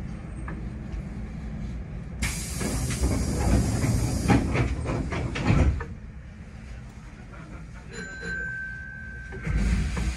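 Hankyu 8000 series electric train running at speed, heard from the driver's cab: a steady rumble of wheels on rail, with a loud rush and a run of rapid clacks for about four seconds from two seconds in. A steady high tone sounds for about a second and a half near the end.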